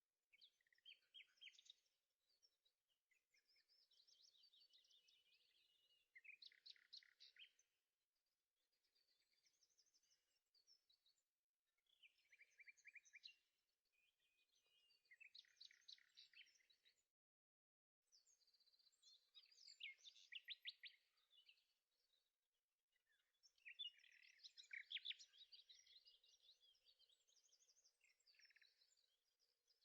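Faint birdsong: songbirds singing in repeated phrases of quick trills and chirps, separated by short pauses.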